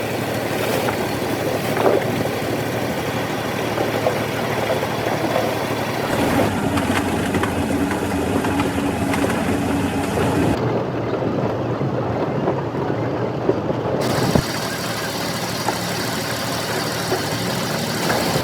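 Steady engine or machinery noise that changes character abruptly several times, about six, ten and fourteen seconds in.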